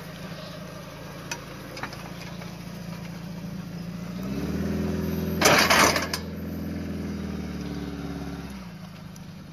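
Suzuki Samurai's four-cylinder engine running as it pulls away over a rocky dirt track, rising in pitch under throttle about four seconds in and dropping back near the end. A brief loud rush of noise cuts in about halfway through.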